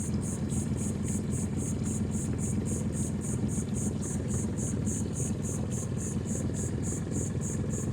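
Boat motor running steadily at low cruising speed, a low even drone, heard from aboard. Over it a high, regular pulsing beats about five times a second.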